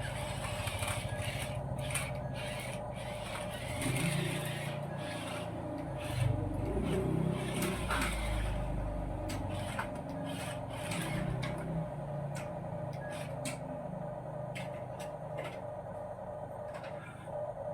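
Remote-control toy truck's small electric motor and gearbox whining steadily, with its plastic wheels and body scraping and rubbing on the ground and a rough rumble in the middle.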